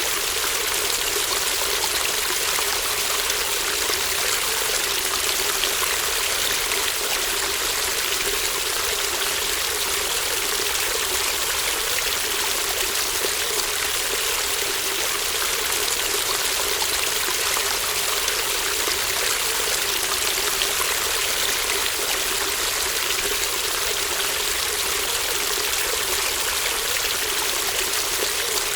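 Babbling brook: shallow water flowing and trickling in a steady, even rush that does not change.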